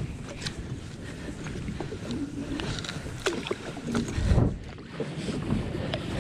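A crab pot being hauled up by hand onto a kayak: rope, water and handling noise with scattered small knocks. A heavy low thump comes a little past four seconds in.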